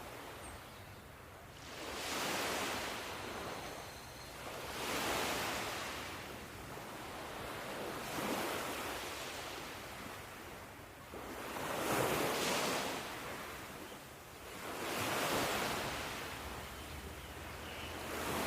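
Ocean waves breaking and washing in, swelling and fading about every three seconds, roughly five times, the loudest about two-thirds of the way through.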